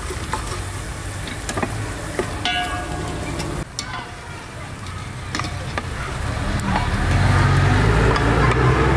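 Cashews sizzling as they fry in ghee in a metal pot, with scattered clicks and scrapes as a wooden spatula stirs them against the pot. A low rumble grows louder near the end.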